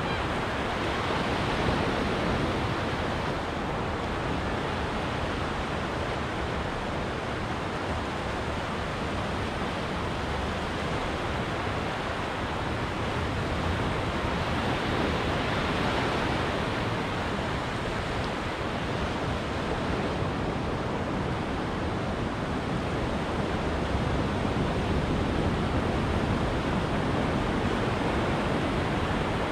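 Ocean surf washing onto a beach: a steady rushing wash that swells slightly about two seconds in and again around sixteen seconds.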